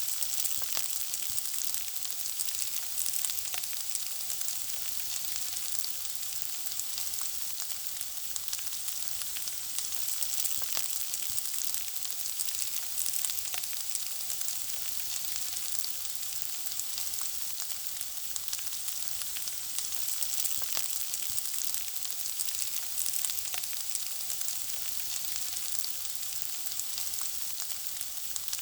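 Food frying in a pan: a steady sizzle with a dense stream of small crackles and pops.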